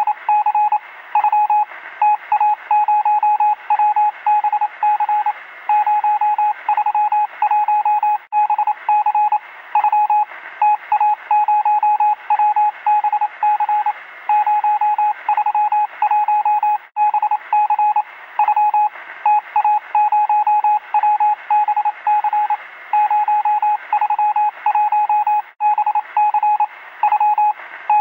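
Morse code over radio: a single steady beep tone keyed on and off in quick short and long elements, over a constant band of radio hiss.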